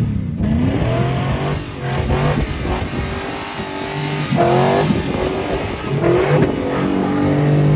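LS-series V8 truck engine revving hard, its pitch sweeping up and down several times: about a second in, around four and a half seconds in, and again near six seconds.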